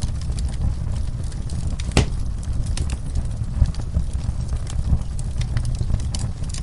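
Wood fire burning in a fireplace, crackling steadily over a low rumble of the flames, with one louder pop about two seconds in.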